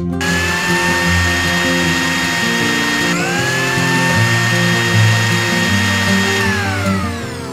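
Miniature electric blender's small motor whining as it blends watermelon pieces into juice. It starts at once, dips in pitch and picks up again about three seconds in, and winds down with falling pitch near the end.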